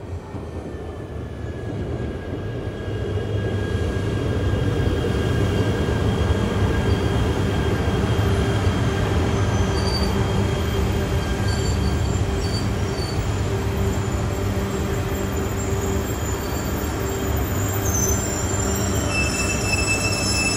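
Yamagata Shinkansen E3 series train running on the rails. The sound grows louder over the first few seconds, then holds as a steady rumble with faint thin whining tones above it.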